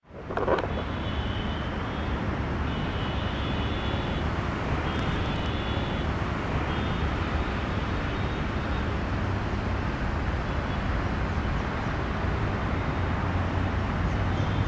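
Steady rumbling noise of an Indian Railways WAP-4 electric locomotive and its express train approaching the station, growing a little louder near the end.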